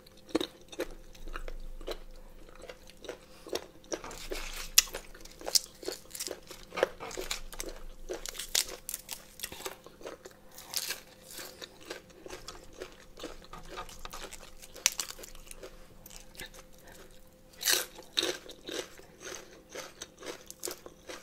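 A person chewing and crunching a mouthful of boiled pig ear, its cartilage crunching with many short crackles and clicks, then biting crisp raw cabbage near the end.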